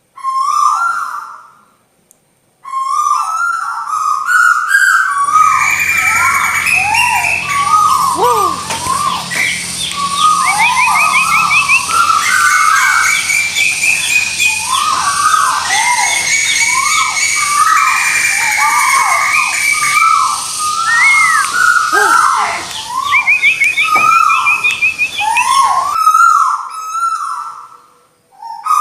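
Bird-lure recording for the tuwu: a short whistled call note repeated over and over, joined about five seconds in by a dense chorus of many other birds' chirps and trills over a low hum, which drops away a few seconds before the end.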